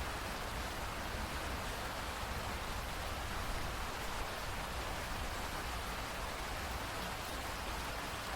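Steady rain falling, an even hiss that holds level throughout, with no bird calls standing out.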